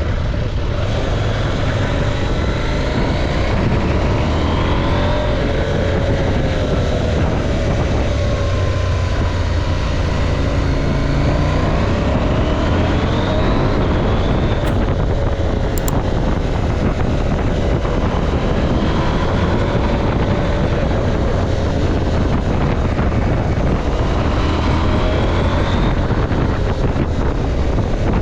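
KTM 790 Adventure's parallel-twin engine running through a ride on a winding mountain road, its pitch rising and falling repeatedly with the throttle and gear changes, with wind rumble on the helmet-mounted camera's microphone. A couple of brief clicks come about halfway through.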